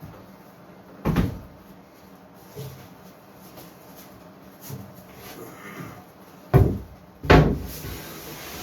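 Several sharp wooden knocks as boards are handled and set into place: a loud one about a second in, then two loud ones less than a second apart near the end, with lighter taps between.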